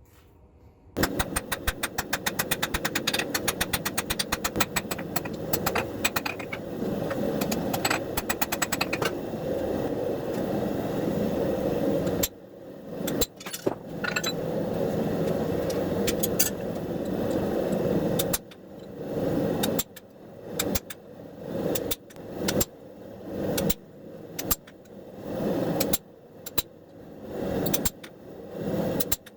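Forging leaf-spring steel: a fast run of metal-on-metal hammer blows over a steady roar, then shorter bursts of blows coming about once a second.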